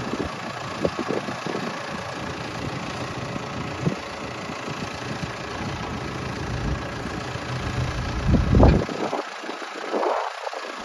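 An engine idling steadily, with wind buffeting the microphone and a strong gust about eight seconds in.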